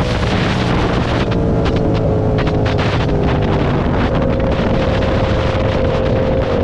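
Motorcycle engine running steadily at road speed, its note dipping slightly and then settling a little higher about halfway through, with wind buffeting the microphone.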